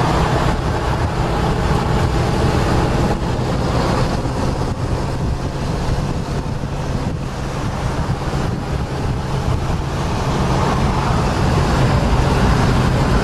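Open 1959 Corvette convertible on the move: its 270-horsepower dual-quad V8 running steadily under wind buffeting on the microphone and road noise.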